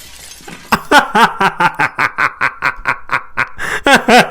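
A woman laughing in quick, loud repeated bursts, about four or five a second, starting just under a second in.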